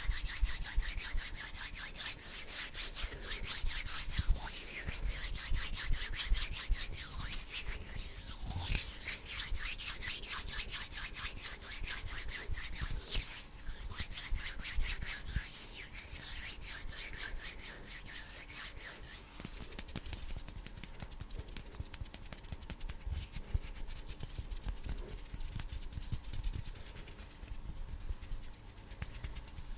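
Bare hands rubbing and brushing against each other close to a sensitive microphone, a dense run of fast, fine, hissy strokes that grows softer about halfway through.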